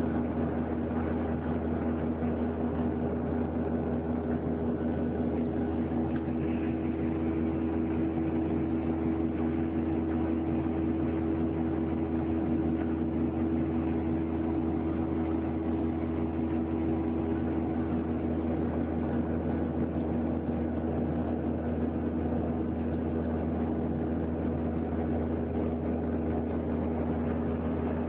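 Steady cabin drone of a Boeing 737-800 in flight: the rush of its CFM56 turbofan engines and airflow heard from inside the passenger cabin, with a steady low hum and no change in pitch or level.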